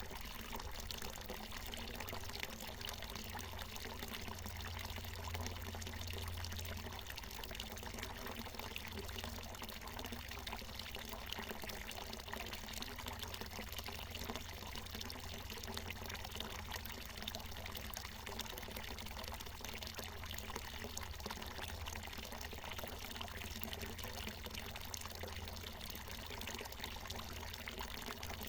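Water from a natural mountain spring falling and splashing in a steady, unbroken stream, with a low rumble underneath.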